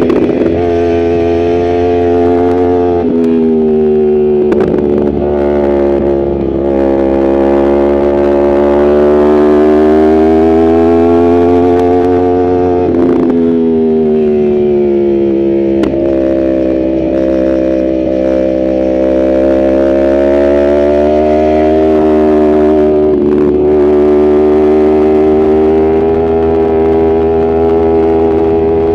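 Yamaha R1 inline-four engine pulling under load, its pitch climbing and falling several times with throttle and gear changes. It drops quickly about three seconds in and falls more slowly around thirteen seconds in.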